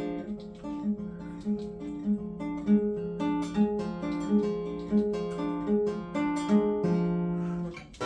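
Acoustic guitar played fingerstyle: an evenly paced, repeating arpeggio of single plucked notes, ending on a held chord near the end.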